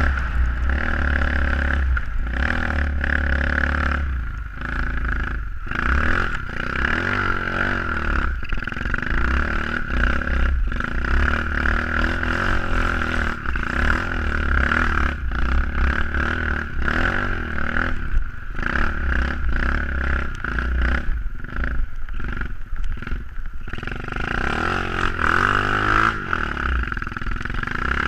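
SSR 125cc pit bike's single-cylinder four-stroke engine running hard under riding load, revving up and down with many brief throttle chops.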